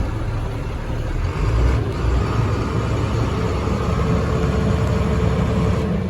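The engine of a 2004 International truck idling in neutral: a steady low rumble with a brief swell about a second and a half in. It is running well.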